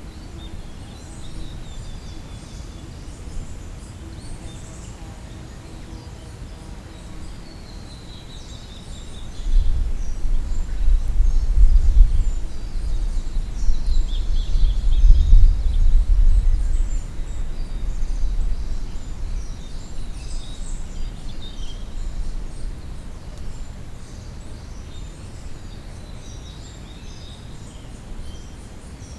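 Small songbirds singing and calling, with short high chirps and trills throughout. About a third of the way in, a loud low rumble swells for several seconds and then fades away.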